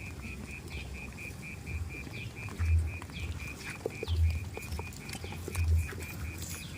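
A high, even chirping call repeated about four times a second, with dull low thumps about every second and a half and scattered small clicks.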